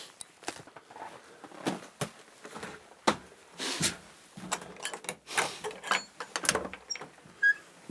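A wooden cabin door being opened and someone stepping in and moving about inside: a string of irregular knocks, clicks and short scrapes.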